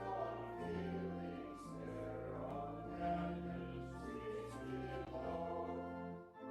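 Organ and congregation singing a hymn, the organ's held bass notes changing about once a second, with a brief break near the end as a phrase closes.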